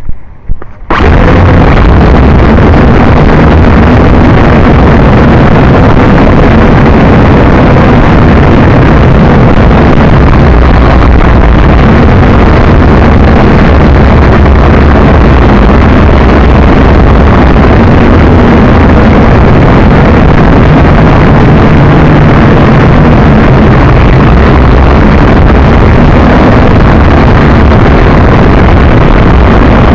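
JJRC H12C quadcopter's motors and propellers running in flight, heard from its onboard camera along with wind buffeting the microphone: a loud, steady, distorted drone with a faint motor whine underneath, starting suddenly about a second in.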